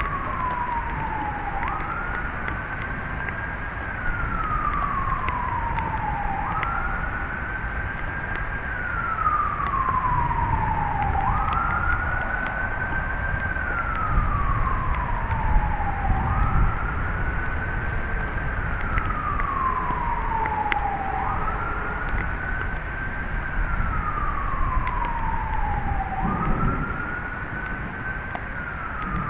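A siren wailing: its pitch jumps up quickly, holds briefly, then slides slowly down, about every five seconds, six times over. Underneath runs the steady noise of thunderstorm wind and rain, with louder low gusts in the middle.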